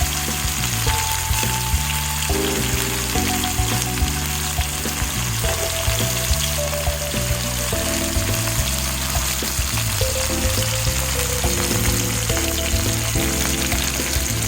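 Food frying in hot oil in a pan, a steady sizzle, under background music.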